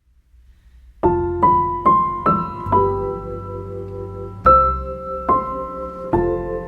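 Background piano music: after a second of near quiet, a short rising run of single notes, then slow sustained chords.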